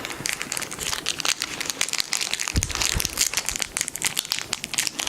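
Plastic candy wrapper crinkling and crackling as it is twisted and pulled in an unsuccessful attempt to open it by hand, with a couple of dull knocks about halfway.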